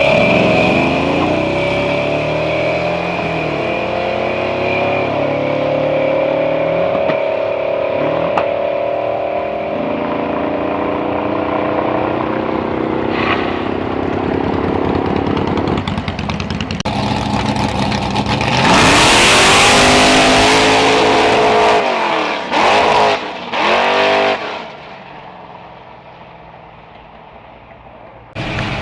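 Drag cars' engines at full throttle: one accelerates hard, its pitch climbing with several drops like gear changes. Then comes a louder, rougher stretch with an engine revved in a few short bursts, after which the sound falls much quieter near the end.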